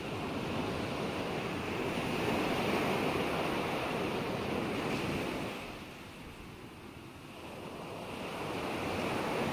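Ocean surf: a wave washes in and hisses, falls away about two-thirds of the way through, and the next wave swells up near the end.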